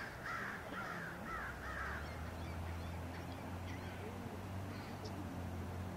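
A bird gives a rapid series of harsh calls, about two a second, that stops about two seconds in. From about a second and a half in, a steady low hum sets in and carries on under a few faint chirps.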